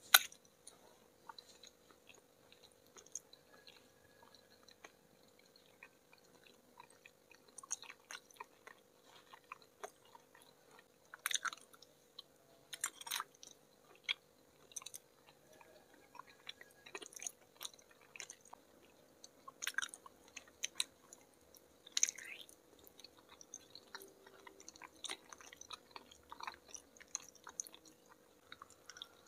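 Mouth sounds of eating soft milk pudding: a sharp bite right at the start, then wet chewing and lip smacking with scattered soft clicks throughout.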